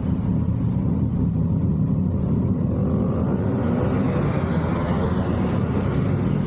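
Yamaha MT-09's three-cylinder engine running through an SC-Project exhaust as the bike rides along, a steady low exhaust rumble. A higher rushing sound builds from about two seconds in and is strongest about four to five seconds in.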